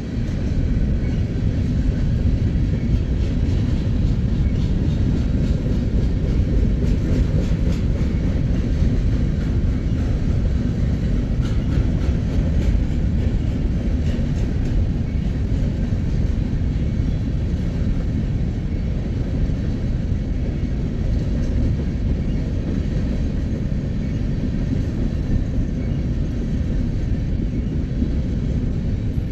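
Empty freight cars, headed to be loaded with corn, rolling past on the rail line: a steady, loud rumble of wheels on track, with a few faint clicks about a third of the way in.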